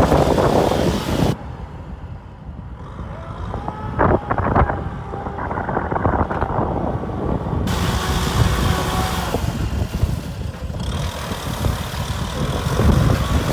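Kubota M6040 tractor's diesel engine running, with wind on the microphone. The sound changes abruptly about a second in and again around eight and eleven seconds.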